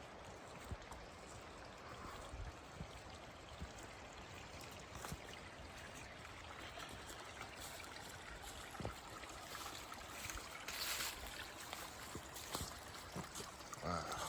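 A small mountain stream flowing steadily, with a few brief knocks and rustles over it.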